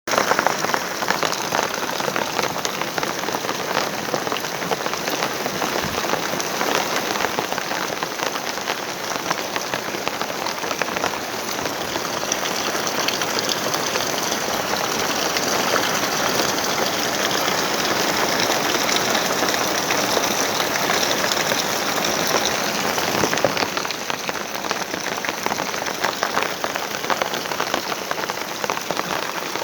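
Rain falling steadily: a dense, even hiss made of countless drop impacts.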